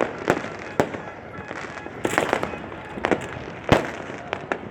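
Fireworks going off in an irregular string of sharp bangs. There is a quick cluster of them about two seconds in, and the loudest bang comes near the end.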